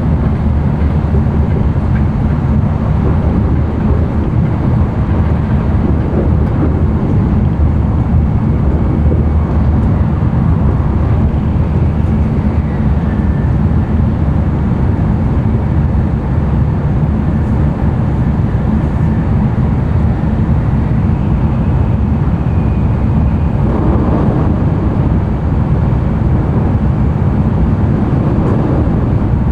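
Interior running noise of an N700-series Tokaido Shinkansen at speed, a steady deep rumble. A brief louder rush comes about 24 seconds in.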